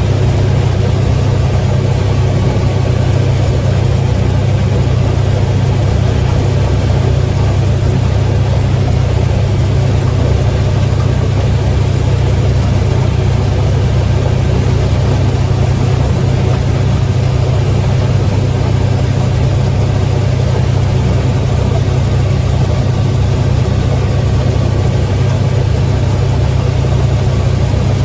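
Combine harvester's diesel engine and machinery running with a steady, unchanging drone at constant speed.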